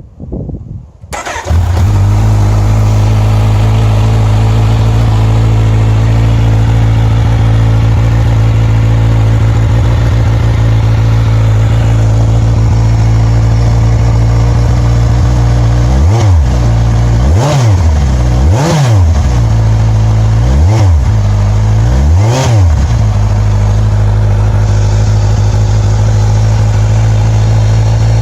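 Kawasaki Z1000SX inline-four motorcycle engine, breathing through a PowerTech carbon-fibre aftermarket exhaust, starting up about a second in and settling to a steady idle. Near the middle it is given five quick throttle blips in a row, each rising and falling, then it drops back to idle.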